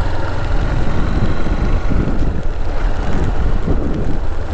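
Wind buffeting the microphone of a rider on a moving motorcycle, a loud, uneven rumble with the bike's engine running beneath it.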